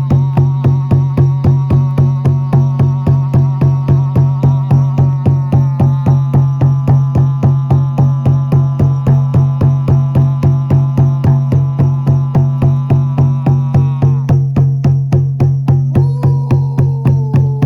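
A frame drum beaten in a steady, even rhythm of about three and a half strokes a second, over a sustained low drone. Higher held tones drift slowly above it, drop out about fourteen seconds in and come back near the end.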